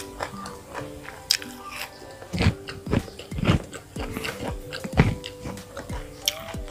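Close-up mouth sounds of someone chewing and crunching food in irregular bites, over soft instrumental background music.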